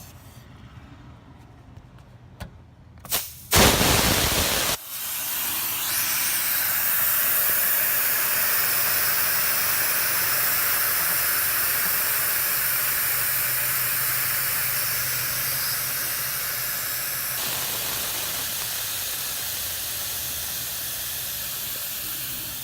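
Pressurised test gas, held at 215 psi, being vented from the cooler's refrigeration system through the gauge manifold hoses, bleeding off the pressure-test charge before evacuation. It starts with a short loud blast, then a steady loud hiss that eases slightly near the end.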